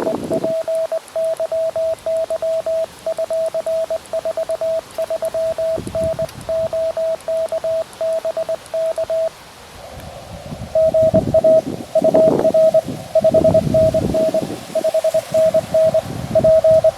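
Morse code from a QRP Labs QMX transceiver, a single tone of about 650 Hz keyed in dots and dashes. For the first half it is clean sidetone. After a pause of a second or so a band of receiver hiss opens and more Morse comes in at the same pitch, with wind rumbling on the microphone underneath.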